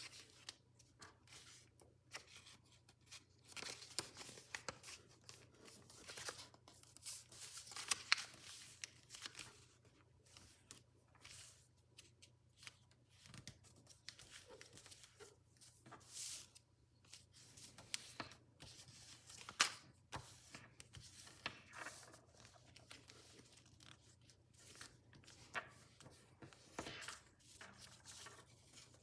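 A sheet of paper being folded and creased by hand: irregular rustling and crinkling, with a few sharper clicks.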